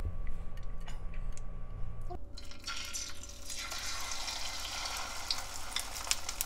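Egg-battered fresh oyster set into hot oil in a nonstick frying pan, sizzling starting a little before halfway through and building into a steady hiss. Before the sizzle, only a low steady hum.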